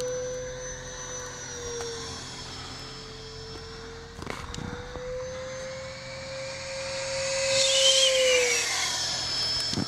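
FMS Super Scorpion 70mm electric ducted-fan RC jet flying fast passes: a steady high fan whine that drops in pitch as the jet goes by, once about two seconds in and again near the end. It is loudest on the second pass.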